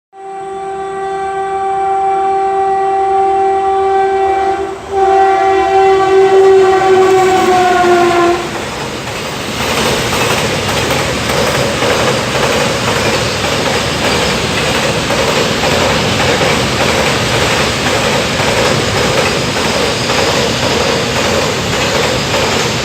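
Freight train locomotive horn sounding two long blasts, the second dipping slightly in pitch as it ends, followed by the steady rumble and clickety-clack of the freight wagons' wheels running over the track.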